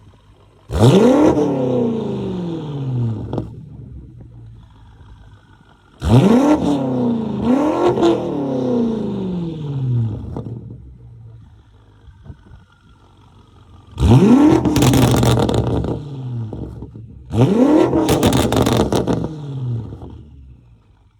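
Supercar exhaust during stationary free revs: five sharp blips in all, each climbing fast and then falling back toward idle over two to three seconds. The second and third come close together, and the last two carry crackles.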